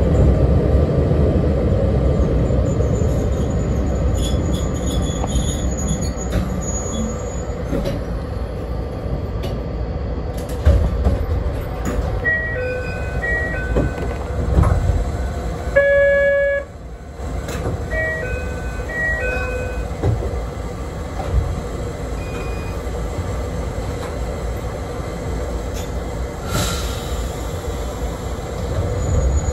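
Low running rumble of a 762 mm narrow-gauge Yokkaichi Asunarou Railway train heard from the cab at a station stop. Over the middle, a short chime of clean electronic tones plays twice, with one longer held tone between the two. Near the end there is a brief hiss.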